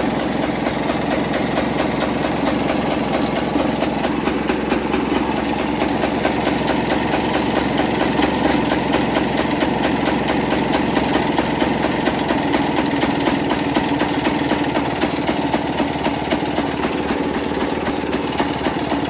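Two-stroke single-cylinder engine of a homemade Muravey-based quad bike idling steadily in neutral, freshly overhauled and holding its idle.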